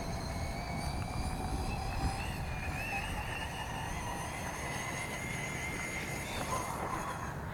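Brushless electric motor of a 1/8-scale RC truck, run by a Castle Mamba X ESC, whining steadily as the truck drives, its pitch wavering slightly with the throttle. There is a low rumble of wind on the microphone underneath.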